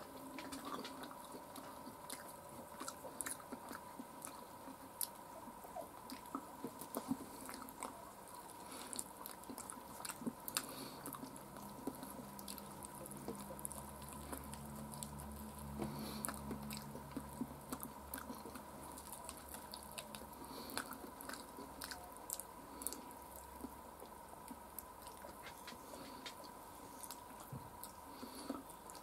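Close-up chewing and biting of fried chicken on the bone, with scattered faint wet mouth clicks and smacks as the meat is picked off and eaten. A faint steady high whine runs underneath, and a low hum comes in for several seconds midway.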